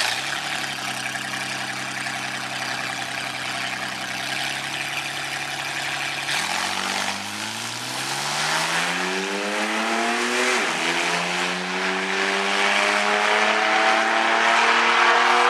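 Ford Mustang's 3.8-litre V6 drag racing engine held at steady revs on the starting line, then launching and accelerating hard down the strip, its pitch climbing, dropping once at an upshift about ten seconds in, and climbing again.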